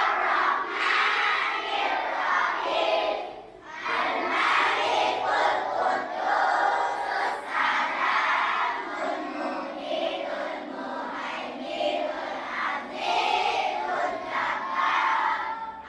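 Many schoolchildren's voices raised together, loud and continuous, with a brief dip about three and a half seconds in.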